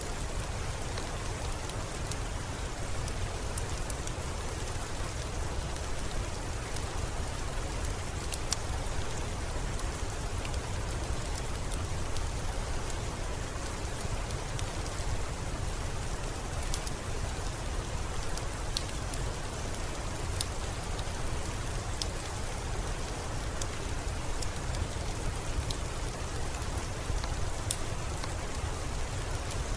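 Steady rain pattering, with scattered sharp little clicks throughout.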